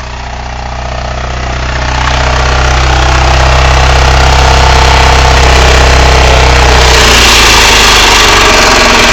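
Toyota Camry engine running and rattling with a broken connecting rod that has punched through the side of the block and no oil pressure. It grows louder over the first three seconds, then runs steadily.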